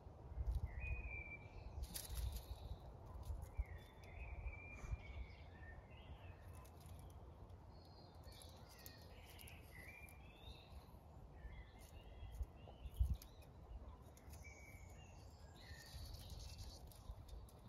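Faint outdoor background: scattered short bird chirps over a low rumbling noise.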